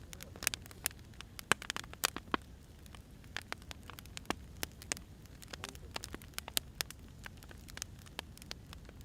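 Firewood burning, crackling with irregular sharp pops and snaps over a low, even rumble of the flames.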